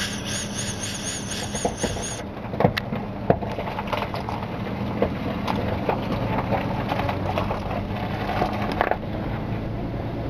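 Motor vehicle's engine running with a steady low hum and road noise, heard from inside the vehicle, with scattered light knocks. For the first two seconds a high, wavering squeak repeats about three times a second.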